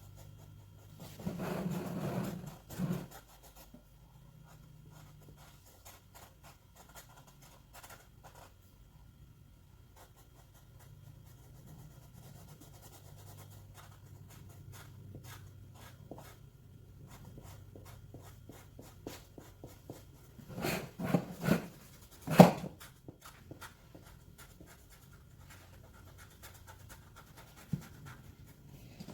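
A drawing tool scratching and rubbing on paper as a car drawing is coloured in. There are louder bumps and rustles about two seconds in and again around twenty-one to twenty-two seconds, the sharpest knock near the end of that second cluster.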